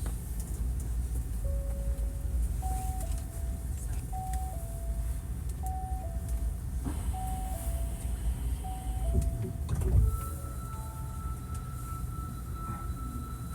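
Train door-closing chime, a high note then a lower one, repeated four times over a low steady hum from the train, then a thud as the doors shut about ten seconds in. A steady high whine starts at the same moment, as the train's traction inverter comes on.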